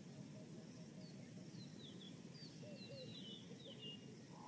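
Faint wild birdsong: short, high chirps and little trills from more than one bird, scattered through, over steady low background noise.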